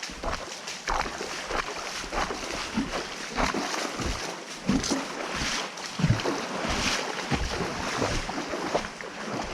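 Water splashing and sloshing irregularly as a person wades through a shallow, fast-flowing stream.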